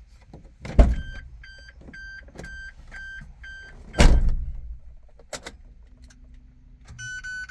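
Suzuki Every van's door shutting with a thump, then the cabin warning chime beeping about twice a second until a second, louder door slam about four seconds in. Near the end a low steady hum comes on and the chime starts again.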